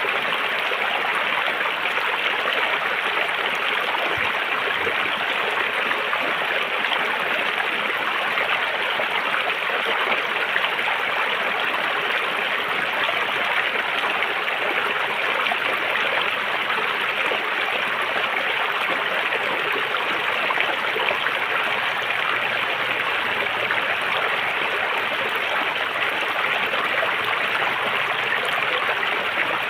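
River water flowing over rocks: a steady, even rush of moving water that does not change.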